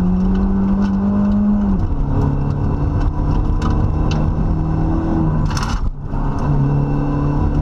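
Rally car engine pulling hard, heard from inside the cabin. Its note drops with a gear change about two seconds in and then climbs again. Near the end there is a brief hiss and a momentary dip in the engine sound before it pulls on.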